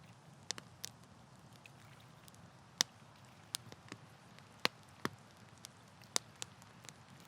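Wood campfire crackling: sharp irregular pops and snaps, the loudest about three seconds in, over a low steady hiss.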